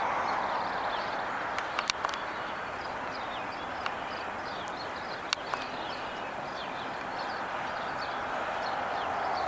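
Road traffic hiss that eases off in the middle and builds again near the end, with small birds chirping throughout. A few sharp clicks come about two seconds in and again past the middle.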